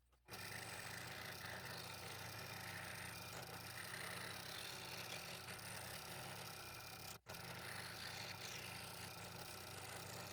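A woodworking power tool's electric motor running steadily, a low hum under a rougher noise. It cuts out abruptly for an instant about seven seconds in.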